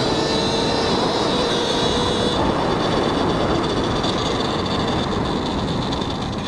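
Talaria X3 electric dirt bike's motor whining under way, with wind rushing over the helmet mic. The high whine fades about a third of the way through as the throttle eases, leaving mostly wind and tyre noise.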